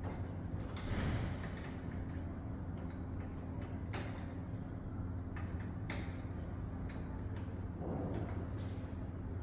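Small clicks and scrapes of hand work on computer parts and metal screws inside a desktop PC case, over a steady low hum.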